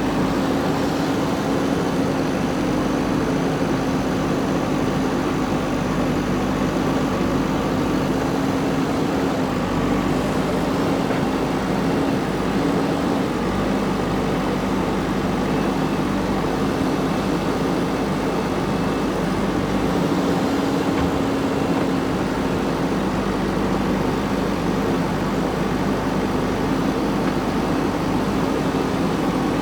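JCB 3DX backhoe loader's diesel engine running steadily under work, a constant drone with a held hum.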